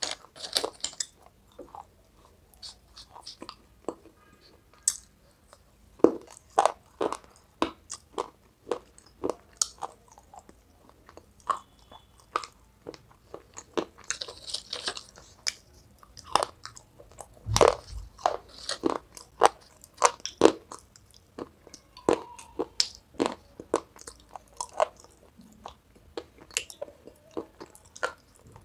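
Close-up crunching and chewing of brittle pieces of broken baked-clay pot: many irregular sharp crunches with quieter chewing between, the loudest crunch a little past halfway.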